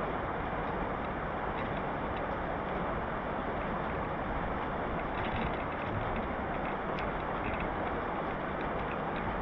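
Heavy rain falling steadily, an even hiss with a few faint ticks of drops scattered through it.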